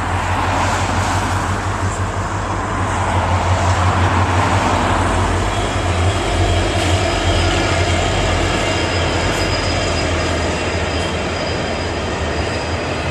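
Union Pacific double-stack freight train passing, with the steady low rumble of its diesel locomotives and the rolling noise of wheels on rail. The rolling noise is loudest in the first few seconds.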